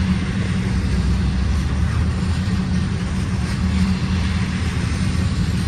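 Freight train rolling by, a loud, steady low rumble with a constant engine drone.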